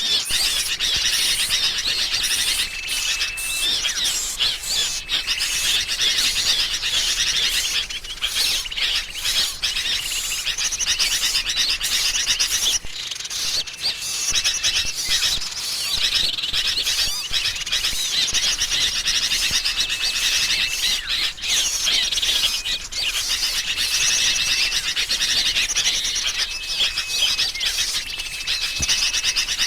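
Bird-lure recording of sooty-headed bulbuls calling excitedly, a dense continuous chatter of chirps mixed with the calls of other small songbirds. A thin held whistle of about half a second recurs every few seconds.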